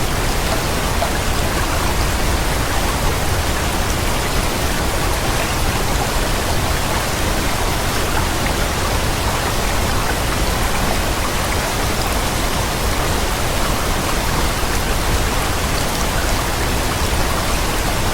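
Ozone Falls, a waterfall, rushing and splashing in a loud, steady roar of falling water.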